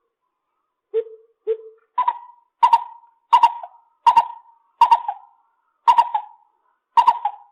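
Lesser coucal calling a series of short, deep hollow notes: two lower ones, then the pitch steps up for about seven louder notes, one roughly every three-quarters of a second.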